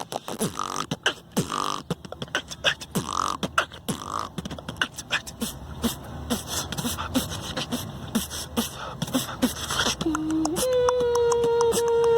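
Beatboxing: a fast run of vocal clicks, snares and short bass hits. Near the end it gives way to a held note that steps up once in pitch and stays steady.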